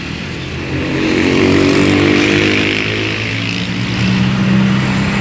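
A motor vehicle engine running, getting louder about a second in, with its pitch stepping up near the end.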